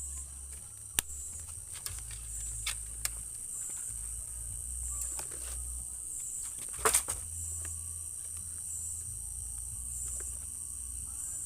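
Crickets chirring steadily in a high continuous drone at night, with a few sharp snaps, the loudest about seven seconds in.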